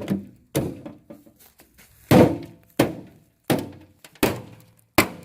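Repeated hammer blows on the metal of an old microwave being broken apart: about seven heavy strikes at uneven intervals of well under a second, each with a short ring after it.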